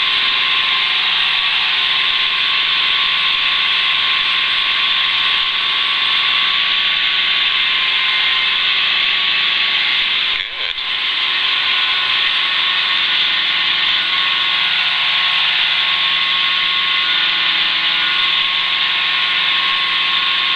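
Schweizer 300CBi piston helicopter in flight, heard from the cabin: a steady hiss with a constant engine and rotor drone at several fixed pitches. It dips briefly about halfway through.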